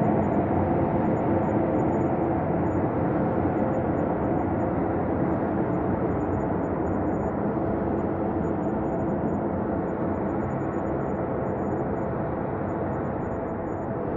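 Ambient space drone: a steady, dense rumbling hum with a few faint held tones inside it, easing slightly in level toward the end.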